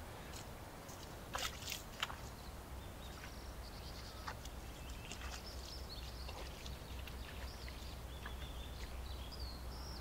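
Small birds chirping, short high calls scattered through, over a steady low rumble; a few sharp clicks come near the start.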